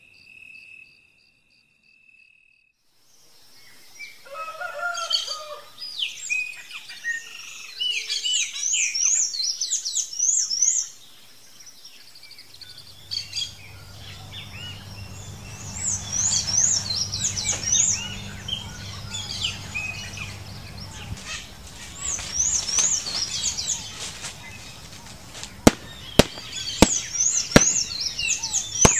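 Birds singing and calling, with many repeated high chirping notes, and a low steady hum under them for several seconds in the middle. Near the end come a few sharp knocks: a stick striking a cowhide hung from a tree branch.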